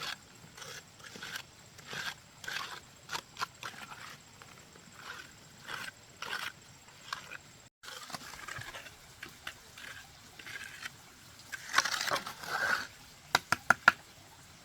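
Irregular scraping and tapping of hand tools at work on the base of a tank, with a brief break partway through and a few sharp clicks near the end.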